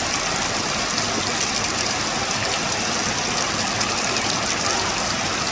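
Heavy rain falling steadily: a dense, even hiss with tiny pattering ticks.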